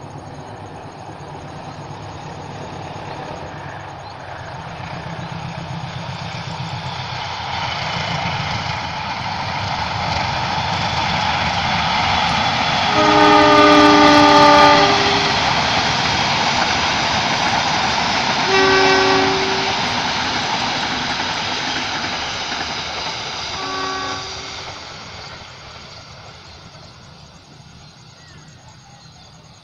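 Passenger train double-headed by two diesel-electric locomotives passing: engine and wheel rumble swells as it approaches, then the locomotive air horn sounds one long blast about halfway through, followed by two short blasts. The rumble fades as the train moves away.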